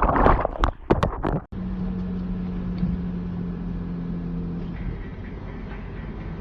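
A few sharp knocks in the first second and a half, then a steady hum of a car driving, with a low even engine tone.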